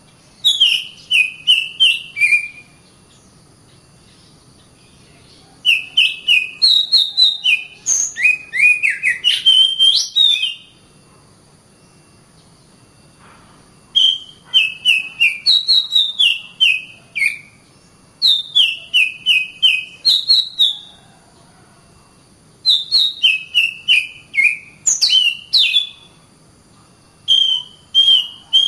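Oriental magpie-robin (kacer) singing: loud whistled phrases of quick, falling notes, sung in bouts of two to four seconds with pauses of a few seconds between them.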